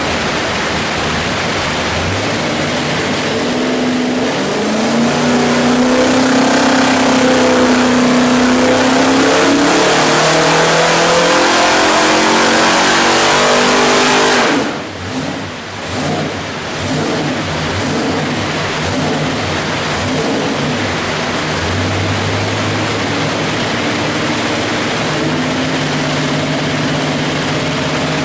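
347 cubic-inch stroker small-block Ford V8 running loud, its revs climbing steadily for about ten seconds, then dropping suddenly as the throttle closes. It then settles back to a steady run.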